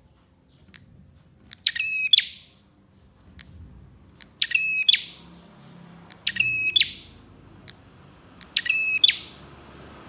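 Prinia (prenjak) song: four short, loud, buzzy phrases, each about half a second long and roughly two seconds apart, with single sharp chip notes in between.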